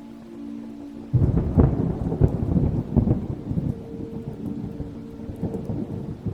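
A thunderclap breaks in about a second in: a sudden loud, low rumble with a few sharp cracks that rolls on and slowly fades, over steady rain. Soft sustained music tones sit underneath.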